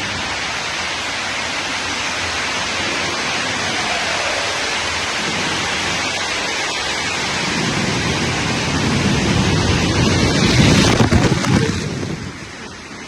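Rushing, splashing water on a water-park tube ride's rapids, a steady noise that swells louder about ten seconds in and then falls away near the end.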